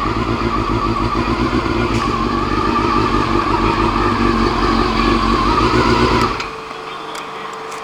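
Honda CBR400 motorcycle's four-cylinder engine running at low speed, which stops about six seconds in, leaving only quiet background.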